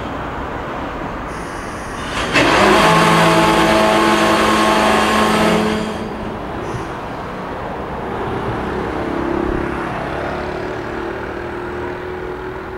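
A JR Freight container train's wagons rolling past on the rails, a steady rumble. About two seconds in, a loud, steady sound of several held tones starts abruptly and lasts about three and a half seconds before dying away.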